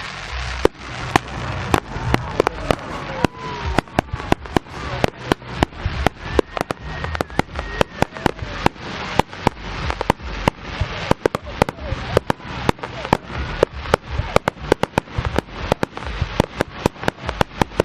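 Fireworks display going off in a rapid, continuous barrage of sharp bangs and pops, several a second, with no let-up.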